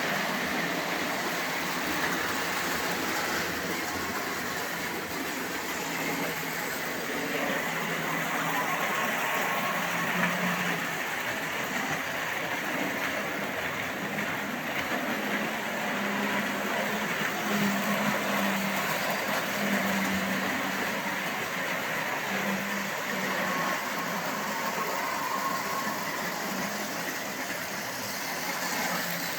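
Four Marx O gauge toy diesel locomotives running at once: a steady whir and rattle of their electric motors and wheels on the track, with a low hum that swells and fades every few seconds.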